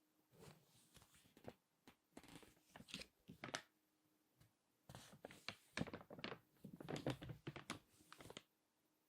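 Glossy magazine pages crinkling as they are turned and squeezed by hand: quiet crackly rustles in three bouts, the last and longest starting about five seconds in, with short silent pauses between.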